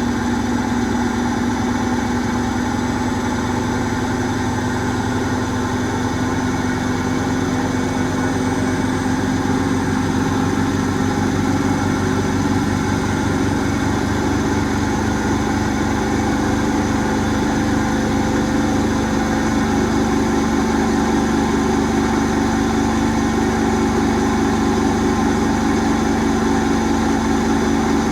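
Asko Quattro W6098X washing machine in its final spin at high speed (limited to 1600 rpm): a steady motor and drum hum with a constant low tone.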